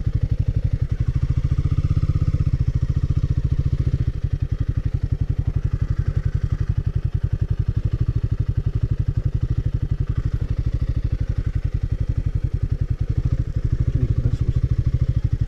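Royal Enfield Himalayan 450 motorcycle's single-cylinder engine running steadily, its firing pulses coming evenly.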